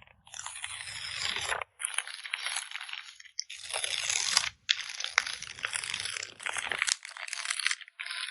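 Packaging crinkling and rustling in about five separate handling bursts, each a second or two long, as photocards are packed.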